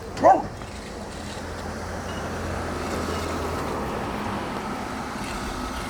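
A low rumble that swells over a few seconds and then eases off, with a brief loud pitched cry about a third of a second in.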